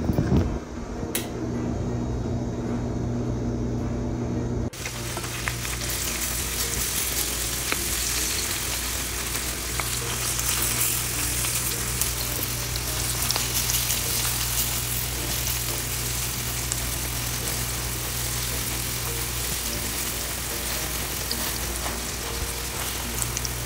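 Kuku sabzi (egg and herb mixture) frying in oil in a nonstick pan: a steady sizzle, with a spoon now and then touching the pan as walnuts and barberries are spread over it. For the first five seconds or so only a low steady hum is heard, then the sizzle starts suddenly.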